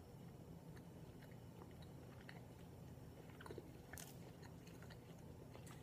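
Faint chewing of a soft, chewy protein cookie with candy corn: quiet mouth clicks and smacks, a few a little louder about three and a half to four seconds in.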